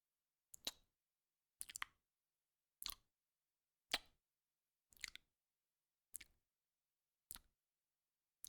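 Eight short, faint wet mouth clicks, evenly spaced about a second apart.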